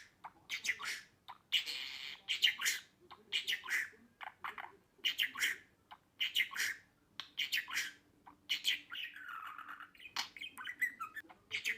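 Budgerigars chattering: quick runs of short sharp chirps and squawks, with a longer scratchy warble about two seconds in and another around nine seconds in.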